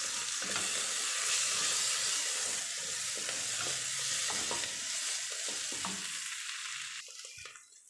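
Browned onions and ginger-garlic paste sizzling in mustard oil in a steel kadhai, stirred and scraped with a wooden spatula. The sizzle drops away near the end.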